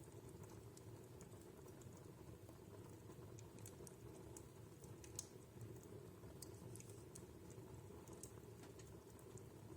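Wood fire burning in a fireplace, crackling softly: scattered sharp snaps and pops over a low steady rush of flame, with one louder pop about five seconds in.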